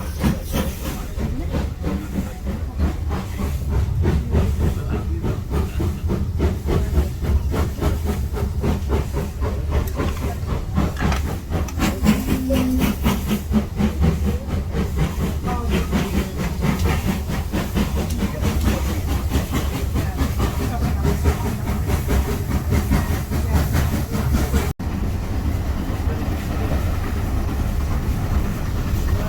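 Steam train heard from a moving carriage: a steady low rumble of wheels on rail with a rapid rhythmic beat and steam hiss, a short low tone about twelve seconds in, and a brief dropout near the end.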